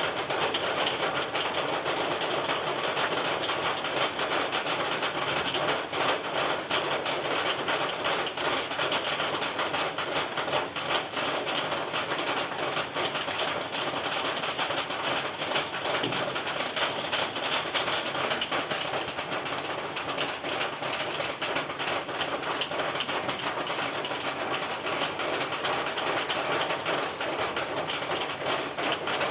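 Rain falling steadily on a roof: a dense, even patter of countless drops striking it.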